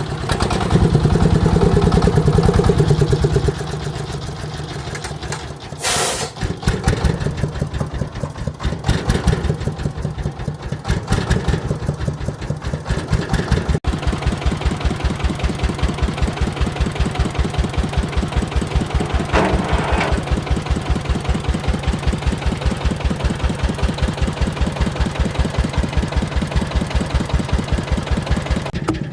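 Farm machine's engine running, louder for about three seconds near the start, with a short hissing burst about six seconds in, then settling into a steady, even idle.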